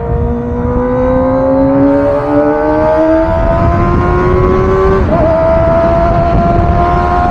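Kawasaki ZX25R's 250 cc inline-four engine through a Villain R11 aftermarket exhaust. It pulls under acceleration, its note climbing steadily for about five seconds. After a brief hitch about five seconds in, it holds a high, steady note, with a heavy low rumble underneath.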